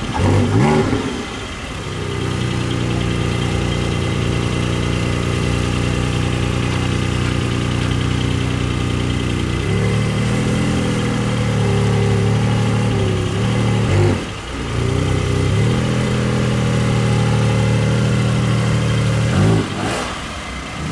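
A supercar engine running at a steady low note, with a short rev just after the start. The note steps up about halfway through, and there are brief revs about two-thirds of the way in and near the end.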